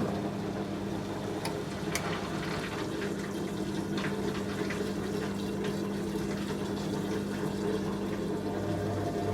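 Candy Aquamatic 100F washing machine in its first rinse: water running with a steady machine hum and a few faint clicks.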